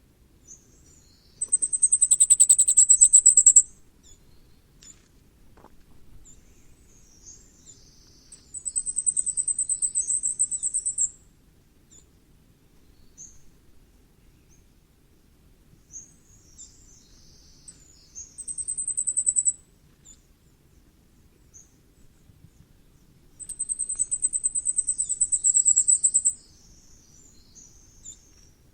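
Common firecrest singing: four short songs, each a quick run of very thin, high-pitched notes that grows louder towards its end, with soft, scattered high calls in the gaps between songs.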